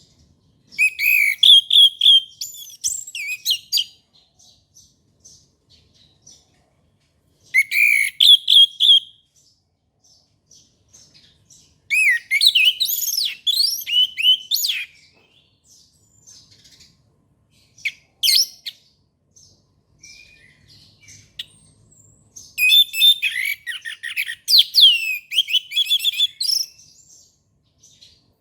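Orange-headed thrush singing: loud phrases of rapid, varied high whistled notes, delivered in four bouts a few seconds long with pauses between, and a brief single note in the middle pause.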